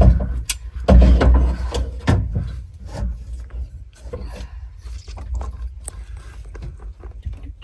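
Metal knocking, clicking and scraping as a power-window regulator is worked into place inside a pickup's door, louder in the first two seconds.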